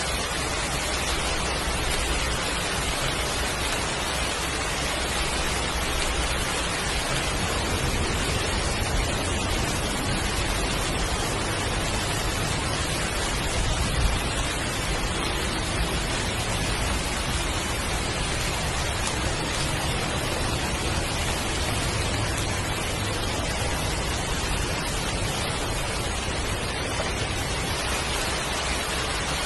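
Heavy rain falling steadily, an even hiss with a low rumble underneath that swells now and then.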